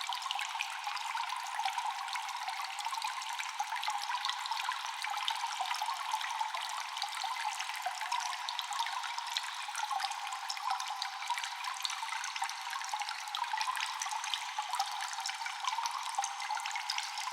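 Water dripping constantly in a cave: many drops falling close together, echoing, with an even, unchanging texture.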